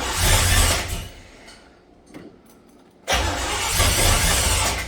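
Freshly rebuilt Chevrolet 396 big-block V8 being cranked on the starter in two loud attempts, the first about a second long at the start and the second about a second and a half long from about three seconds in. It does not keep running: these are first start attempts without a fuel pedal hooked up.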